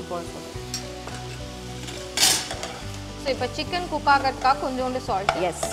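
Chicken pieces with onion, tomato and spices sizzling as they fry and are stirred in a kadai, with a short, louder rush of sizzle about two seconds in.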